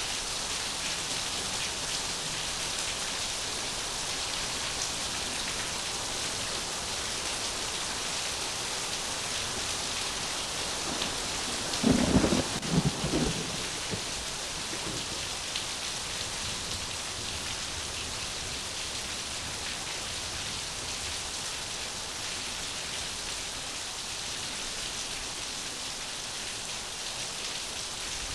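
Heavy rain falling steadily, with one short, loud clap of thunder about twelve seconds in that rumbles for a second or so before the rain alone carries on.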